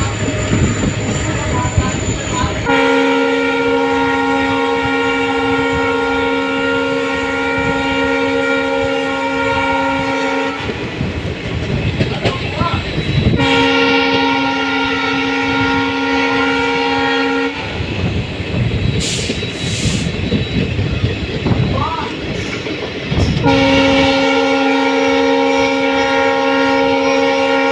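A locomotive's air horn sounds three long blasts, the first about eight seconds, the second about four, the last starting near the end, over the steady rumble and clatter of a train running on the track.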